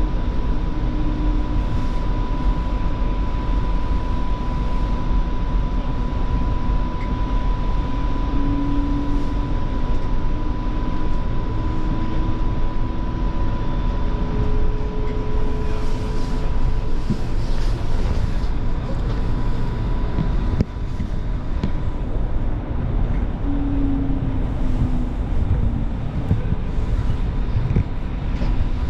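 Light rail vehicle running along the track, heard from inside the car: a steady rumble of wheels and running gear with a constant high tone and brief low hums coming and going. A single knock about two-thirds of the way through.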